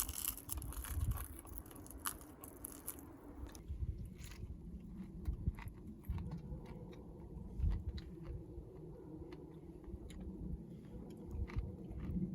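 A person chewing food close to the microphone: irregular crunches and soft clicks, with a rustle over the first few seconds.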